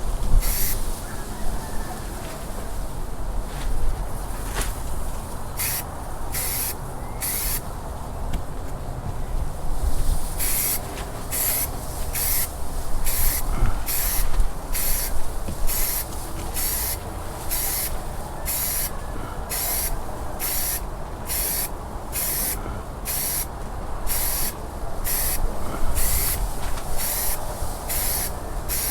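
Primer being sprayed onto a boat hull in short hissing bursts. A few bursts come early, then after a pause they come in a steady run of more than one a second.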